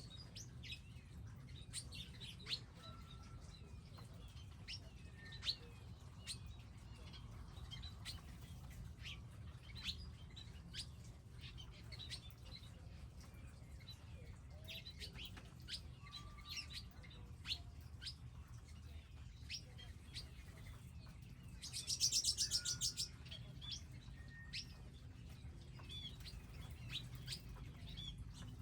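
Small wild birds chirping, with many short, sharp calls scattered throughout. About three quarters of the way in comes a louder, buzzy rapid trill lasting about a second. A faint steady low hum runs underneath.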